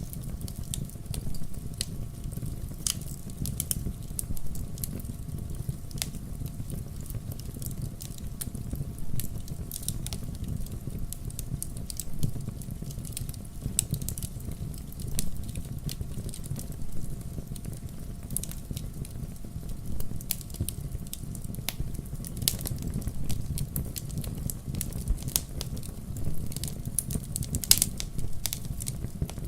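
Wood fire burning in a fireplace: a steady low rumble of flames with irregular sharp crackles and pops, a louder pop near the end.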